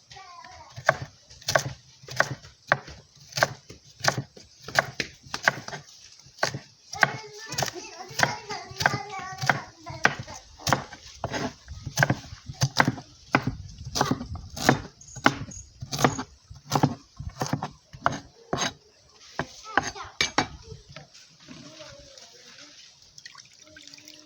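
Knife chopping carrot on a cutting board in steady, even strokes, about one and a half to two a second, stopping a few seconds before the end.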